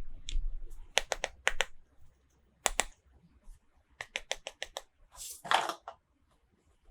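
Small hard plastic pieces being handled: a series of quick, sharp clicks and taps in short clusters, then a brief rustle of packaging near the end.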